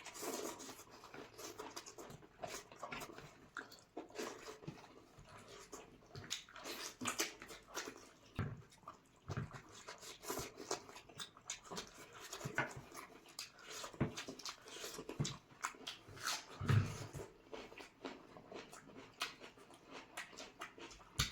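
Wet eating sounds from chicken curry and rice: irregular chewing, smacking and slurping clicks.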